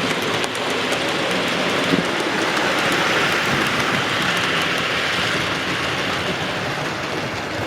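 Model railway train running along the layout: a steady rolling rush of wheels on the track and motor, growing louder about three seconds in and fading near the end as it passes.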